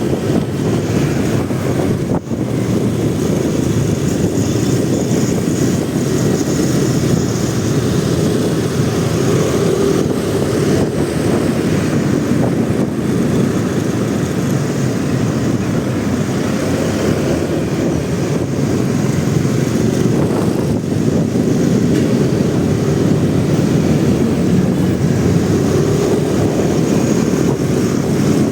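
Motorcycle running steadily while riding in traffic, a continuous low engine and road drone mixed with wind rush on a bike-mounted microphone.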